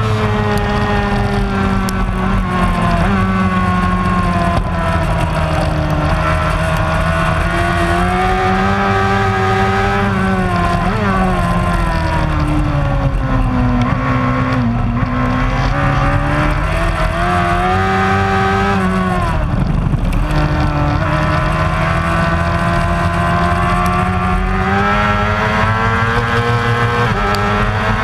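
Racing superbike engine running hard, its pitch climbing and falling through gear changes and easing off, with deep dips about halfway and about two-thirds in before it climbs again.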